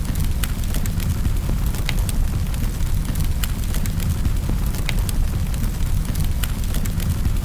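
Wood fire crackling in a fireplace: a steady low rumble from the burning fire with sharp, irregular pops and snaps a few times a second.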